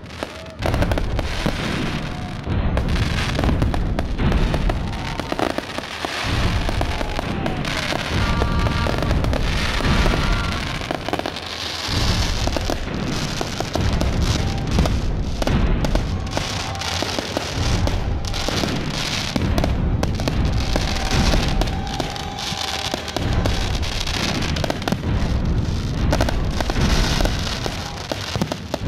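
Aerial fireworks bursting overhead in a dense, continuous run of bangs and crackling, with low booms throughout.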